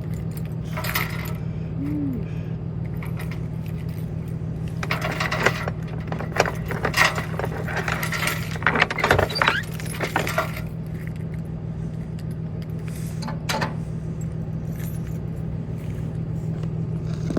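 Keys jangling and clinking in short, scattered bursts, mostly in the middle of the stretch, over a steady low hum.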